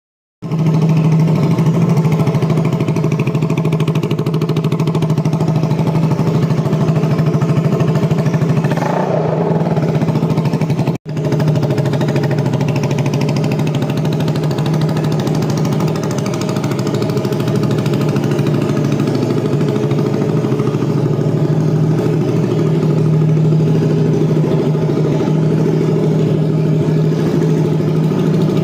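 Zontes motorcycle with an aftermarket TOCE exhaust idling steadily at an even pitch. The sound cuts out for an instant about 11 seconds in.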